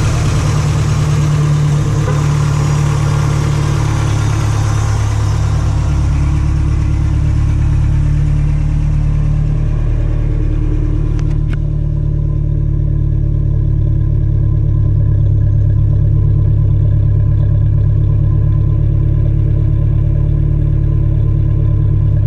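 Toyota 22RE four-cylinder engine, built to stage 2, idling steadily through an aftermarket header and MagnaFlow muffler. A hiss over the exhaust note fades out about halfway, and there is a single click near the middle.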